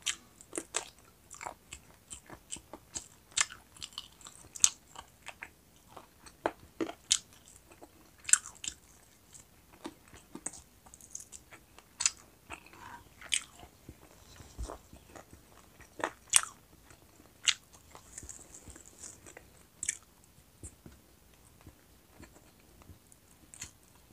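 A person chewing and biting roast chicken wings close to a clip-on microphone: irregular sharp crackles and clicks, a few a second.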